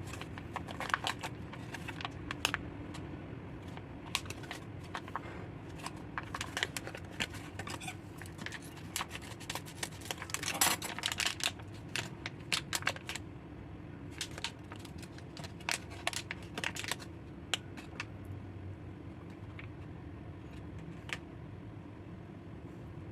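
Plastic snack packaging being handled and opened: scattered crinkles and clicks, with a longer crackle about halfway through, over a steady low hum.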